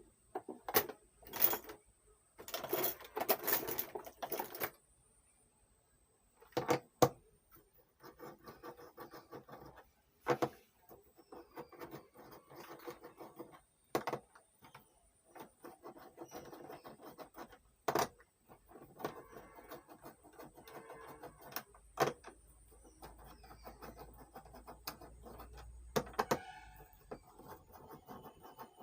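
Clicks, knocks and rattling of tools and metal parts as an audio mixing console's casing is unscrewed and opened, with sharp knocks every few seconds between stretches of scraping and rattling.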